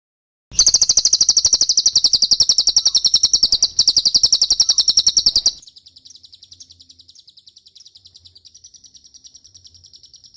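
Cililin song: a very fast trill of rapidly repeated high notes that starts about half a second in. It is loud for about five seconds, then drops suddenly to a much quieter level and keeps going until it stops near the end.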